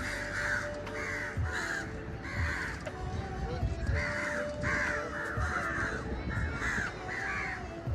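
Crows cawing over and over, calls following one another at about two a second.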